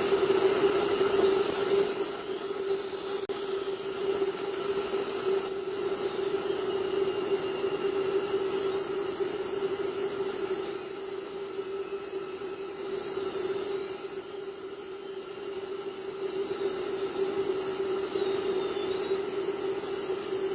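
Jet airliner engines running, with a high whine that rises, holds and falls in pitch several times over a steady hum and a rushing noise.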